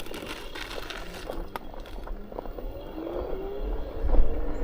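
Electric unicycle's hub motor whining, rising steadily in pitch from about three seconds in as it speeds up, over a low rumble that swells near the end and scattered light clicks.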